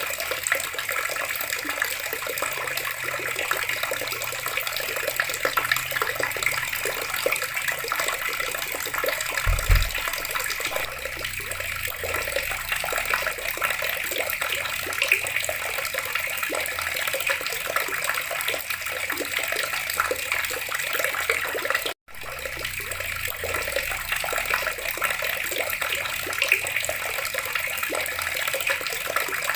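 Water running steadily from a tap in an even splashing stream, with a single low thump about a third of the way through and a momentary cut to silence about three quarters of the way through.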